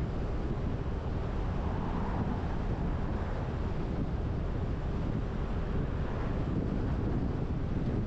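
Steady road and wind noise of a car driving, with a low rumble and wind rushing on the microphone.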